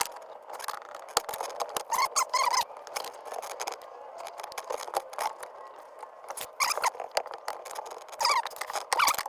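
Irregular clicks and knocks of hand wrenches on the metal fittings of a car's hydraulic handbrake line, with several short squeaks.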